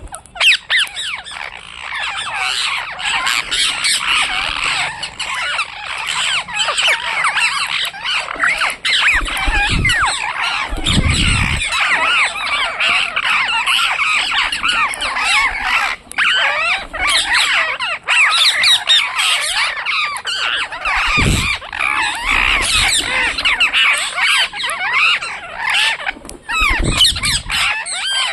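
A flock of parrots chattering and squawking all at once: a dense, unbroken mass of overlapping high calls, with a few brief low rumbles.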